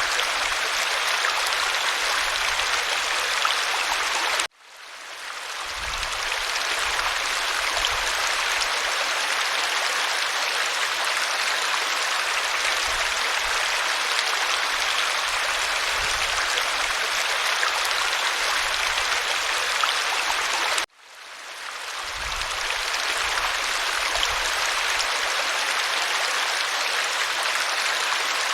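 Waterfall, water rushing in a steady, even hiss. It cuts out abruptly twice, about four seconds in and again about twenty seconds in, and each time fades back up over a second or two.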